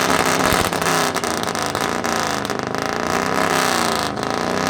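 Modified car exhaust being revved hard in repeated pulls, the engine note rising and falling several times, with sharp pops and crackles.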